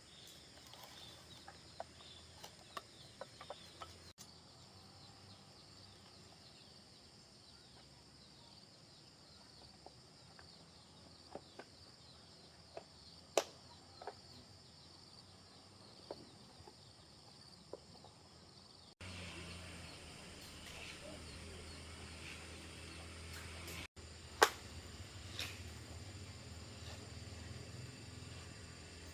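Scattered light clicks and taps of small parts and hand tools being handled while working on a chainsaw engine, the sharpest about 13 and 24 seconds in. Insects chirr steadily in the background.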